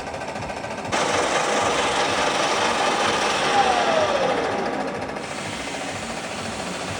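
Workshop machine running with a steady, fast rattle. About a second in it turns louder and hissier, as if cutting into metal, and a short falling whine comes near the middle.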